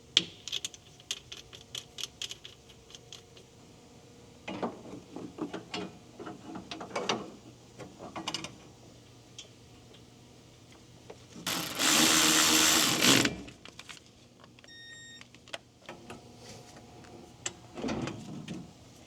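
Hand-tool work on car AC hose fittings: scattered metallic clicks and ratcheting, with a loud noisy burst lasting about two seconds midway.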